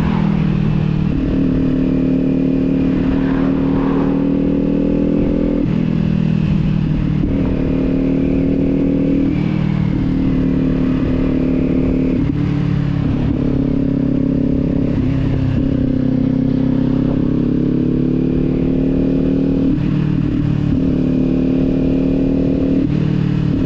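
Kawasaki sport bike with a Leo Vince aftermarket exhaust running on the road, its engine note shifting pitch every few seconds as the rider works the throttle, over low wind rumble.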